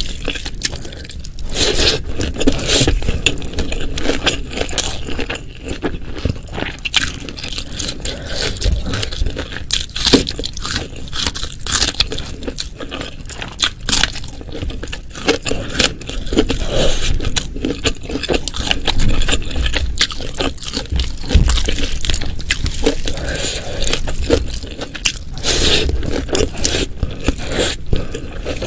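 Close-miked eating sounds: chewing and biting of spicy Indonesian dishes, a dense run of small clicks and smacks that never stops for long.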